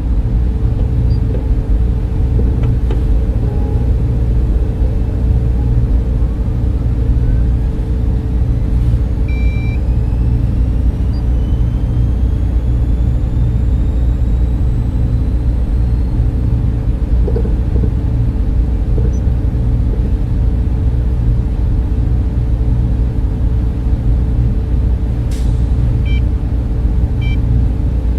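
Server room cooling fans running steadily: a dense low rumble with a constant hum. A few faint high tones rise slowly through the middle, with brief faint chirps about a third of the way in and near the end.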